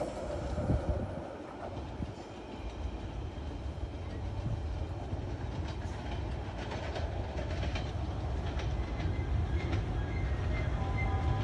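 A passenger train's rear coaches rolling away, the wheels clicking over the rail joints above a low rumble. Near the end a short repeated beeping tone comes in.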